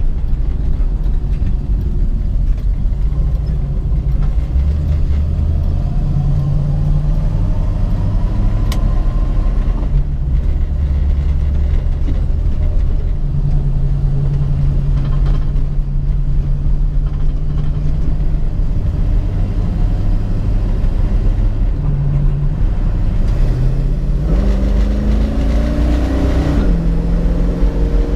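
1967 Ford Mustang's 289 V8 running under way, its engine note steady for most of the time; a few seconds before the end the revs climb, dip once sharply, then keep rising.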